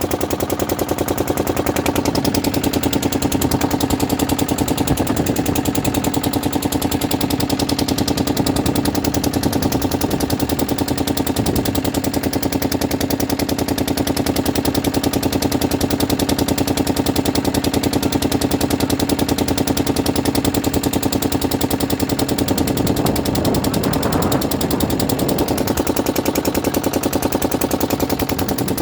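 An engine running steadily with a rapid, even knock.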